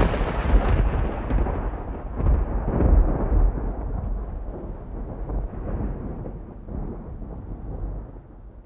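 Thunder rolling: a long rumble that is loud at first, swells again about two to three seconds in, and then fades away.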